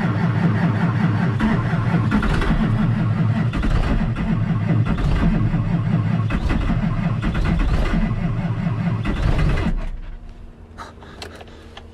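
A truck engine cranking on its starter in sub-zero cold without catching, a pulsing churn that stops abruptly about ten seconds in. A few faint clicks follow.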